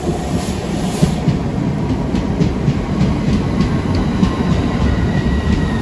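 Southeastern Class 395 'Javelin' high-speed electric train running alongside the platform: a steady rumble with wheels clicking over the rail joints as the carriages go by, and a faint high whine near the end.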